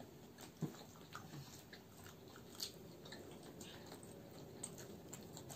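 Faint biting and chewing of homemade french fries by several people, with scattered small mouth clicks and a couple of soft knocks.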